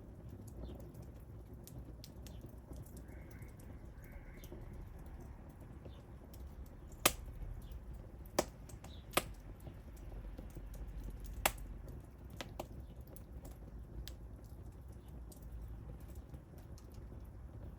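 Wood fire crackling: scattered sharp pops and snaps, a few much louder than the rest, over a steady low rumble of burning.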